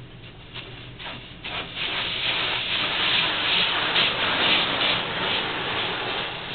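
Automatic car wash working over a car: a hissing rush that builds from about a second and a half in, is loudest around the middle and eases off near the end. A few short patters come before it.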